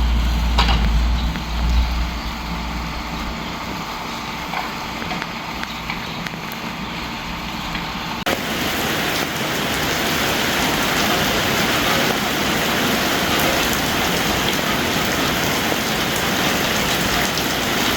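Steady hiss of falling water, like rain, with a low wind rumble on the microphone in the first few seconds. About eight seconds in, an abrupt change to a louder, even hiss.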